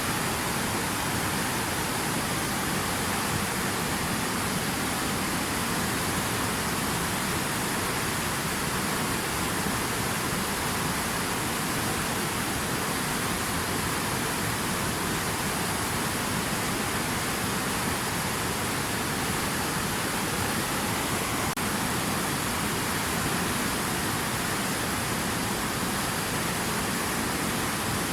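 Steady, even rush of water, with no change in loudness.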